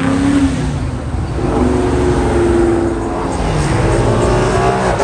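A car engine revving hard as the car accelerates away, its pitch climbing twice with a brief dip between.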